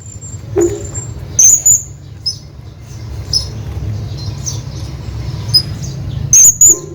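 Hanging parrot giving shrill, very high-pitched calls. A loud double call comes about a second and a half in and another near the end, with softer single chirps between, over a steady low rumble.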